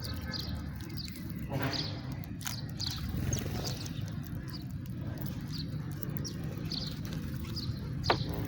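House sparrows giving repeated short, falling chirps, about one or two a second, over a steady low rumble.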